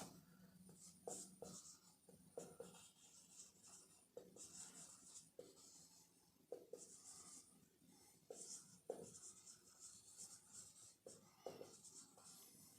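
Faint marker pen writing on a whiteboard, in short intermittent scratchy strokes with small taps between them.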